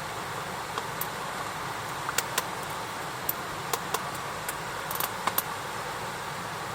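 Campfire crackling: a steady hiss with about a dozen sharp, irregular pops, several of them close together near the middle.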